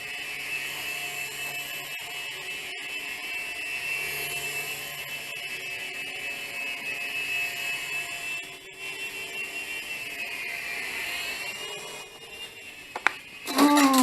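Mini infrared-controlled helicopter with counter-rotating rotors in flight: its small electric motors and blades make a steady high whine, which dips and rises in pitch as the throttle changes a couple of seconds before the end. Near the end comes a sharp click, then a short, louder sound that falls in pitch.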